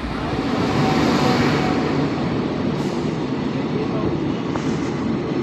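Steady rumbling and rattling of a moving passenger train running on the track, heard from on board.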